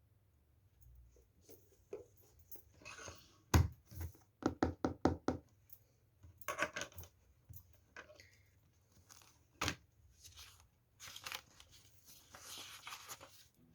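Desk-top handling of paper and drawing materials: a sharp knock, then a quick run of about six taps, scattered clicks, and a stretch of paper rustling and scraping near the end.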